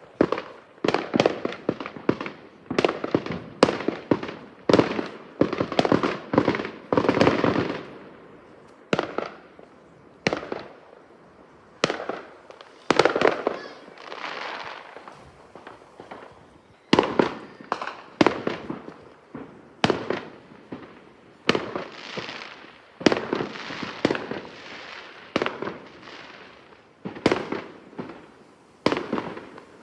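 Fireworks going off in a dense barrage: sharp bangs about one or two a second, some trailing into a longer hiss, with a brief lull about halfway through.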